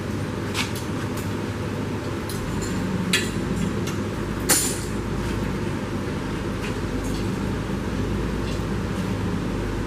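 Three sharp metallic clinks over a steady low rumble: one shortly after the start, one about three seconds in, and the loudest about halfway through.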